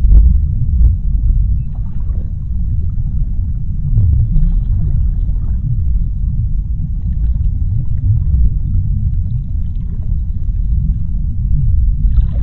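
Underwater sea-floor ambience: a deep, steady rumble with faint scattered clicks and crackles over it.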